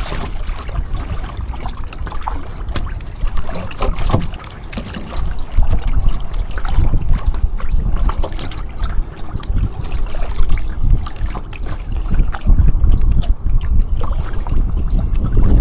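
Wind buffeting the microphone in gusts, growing stronger about six seconds in, over kayak paddle strokes with water trickling and splashing.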